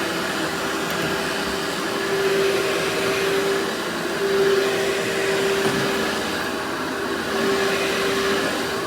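Workhorse vacuum cleaner running with a steady motor whine over a rush of suction noise. The level swells and eases every second or two.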